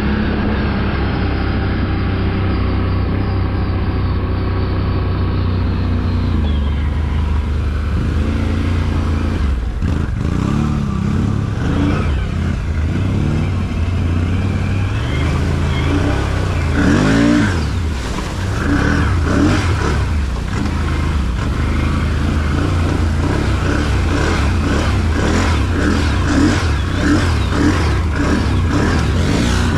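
Off-road vehicle engine running steadily under way, then revving up and down repeatedly from about ten seconds in.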